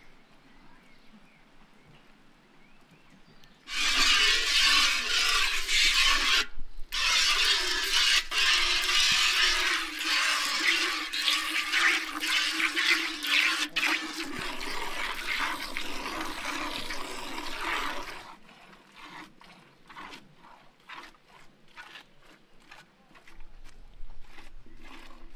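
Cow being milked by hand into a galvanized metal pail: milk squirts hitting the bucket and its foam. A loud, dense hissing starts about four seconds in, and later eases into quieter, separate squirts at a steady rhythm.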